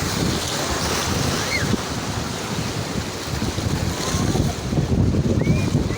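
Sea waves washing onto the shore, with wind buffeting the microphone; the surf swells louder about five seconds in.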